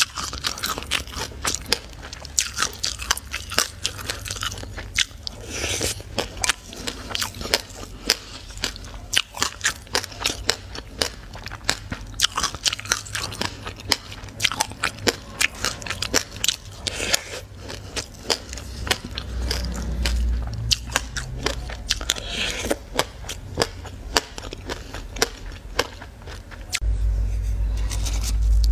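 Close-miked chewing of a mouthful of raw sesame seeds and passion fruit seeds, a dense run of small crisp crunches and crackles. Near the end a steady low hum comes in and is the loudest sound.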